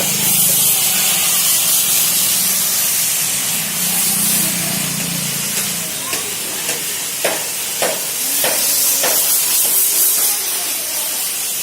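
Car-wash foam sprayer spraying with a steady, loud hiss over a low machine hum that fades out about halfway through.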